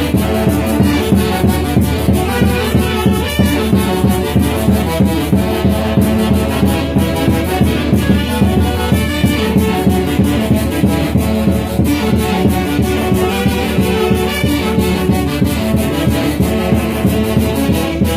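Band music led by horns over a steady, even beat, typical of a Huancayo-style orquesta.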